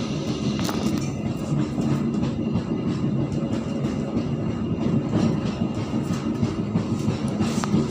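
Passenger train running along the track, heard from the rear of the last carriage: a steady low rumble of wheels on rail, with a few faint clicks.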